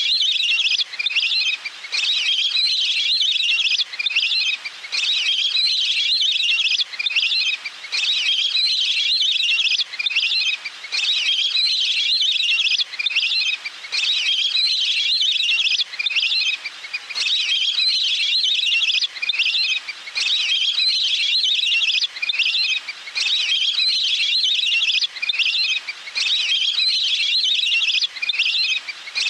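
Recorded call of a water bird (Thai 'nok pet nam') played as a lure: high, fast trilling phrases, one after another, with brief gaps about every two seconds.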